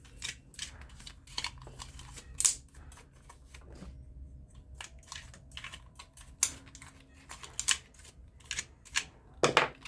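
Small metal parts clicking and tapping at an irregular pace as a nut and lock washer are handled and fitted back on during a fan motor teardown.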